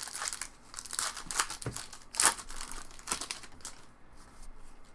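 Plastic wrapper of a trading-card pack crinkling as it is handled, a run of quick crisp crackles that dies away near the end.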